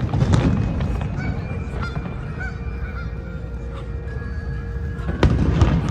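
Geese honking, a few short calls about two seconds in, over low rumbling music, with a sharp bang near the end.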